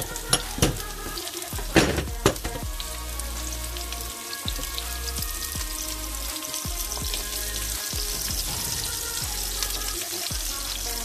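Squash chunks frying in hot oil with sliced onion, garlic and ginger, giving a steady sizzle. A few sharp knocks come in the first couple of seconds.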